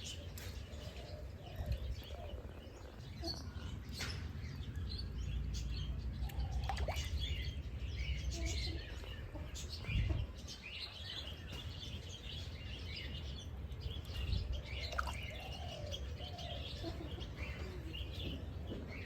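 Several small birds chirping and twittering in overlapping short calls, over a steady low rumble, with a brief louder low thump about ten seconds in.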